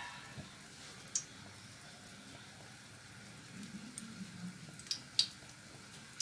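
Stuffed qatayef frying in oil over medium heat: a faint steady sizzle with a few sharp pops, one about a second in and a cluster near the end.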